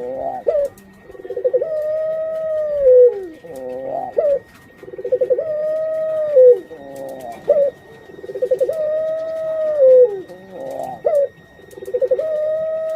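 Breeding puter pelung dove (domestic Barbary dove) cooing over and over, about every three and a half seconds. Each call is a rolling, stuttered note drawn into a long held coo that falls at its end, followed by a few short quick notes.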